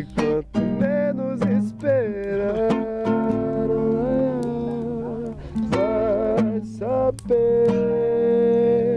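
Acoustic guitar being strummed while a voice sings long, wavering held notes without clear words.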